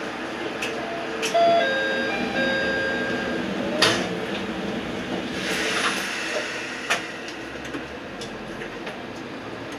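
Steady hum of a diesel railcar heard from inside the train, with several sharp clicks and a few short electronic tones about a second in, and a brief rush of noise near the middle.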